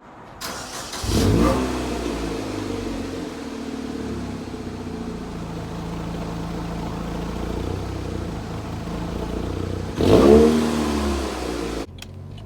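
Saturn Ion Redline's supercharged 2.0-litre Ecotec four-cylinder exhaust starting up about a second in and settling to a steady idle. A single rev blip near ten seconds falls back, then the sound cuts off suddenly.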